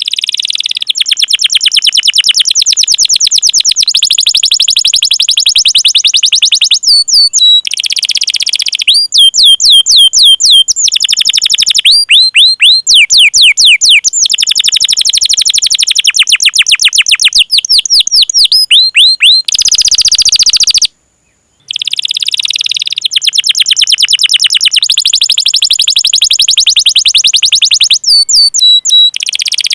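Domestic canary singing loudly: long rolling trills of fast repeated high notes alternating with slower runs of sweeping chirps. The song breaks off briefly about 21 seconds in, then resumes.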